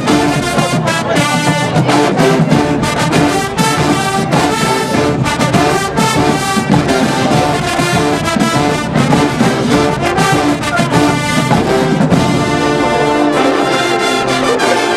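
Marching band playing loud brass music with drums beating through it.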